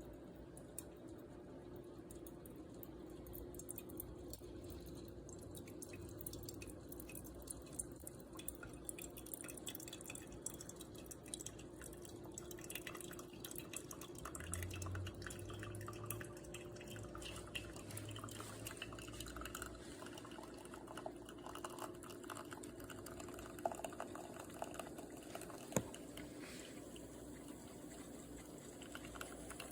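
Steam espresso machine brewing: faint crackling and dripping of liquid over a steady low hum, the crackle growing busier partway through.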